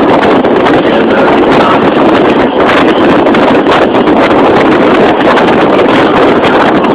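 Wind rushing hard across the camera microphone on a moving boat, a loud steady roar with no breaks.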